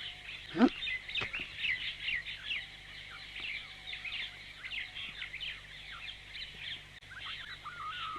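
Birds chirping: a dense stream of short, quick falling chirps, fairly quiet, as a background ambience.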